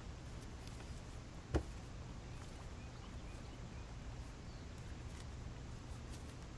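Quiet background ambience with a steady low hum and a single soft knock about a second and a half in, with a few faint chirps a little later.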